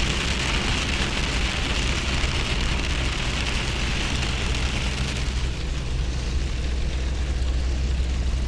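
Heavy rain pounding on a moving pickup truck, heard from inside the cab as a steady hiss over the low rumble of the engine and tyres on a wet road. The hiss eases a little about five seconds in.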